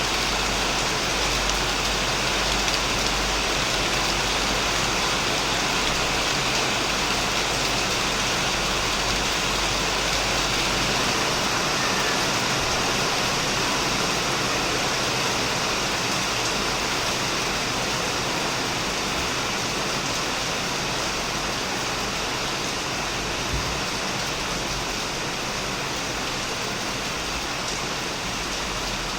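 Heavy rain falling steadily on a shed roof, an even hiss of drops with no let-up.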